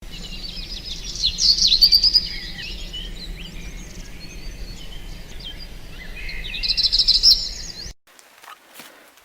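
Wild birds singing and chirping, with loud trilling phrases twice, over a steady low hum; the sound cuts off abruptly near the end.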